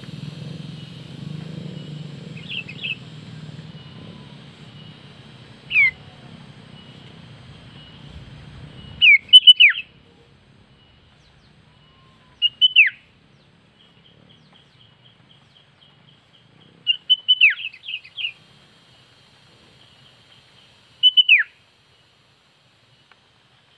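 Sooty-headed bulbul (kutilang) calling: short, sharp high notes that sweep steeply downward, given in clusters of one to four about every three to four seconds. A low background rumble stops abruptly about a third of the way in.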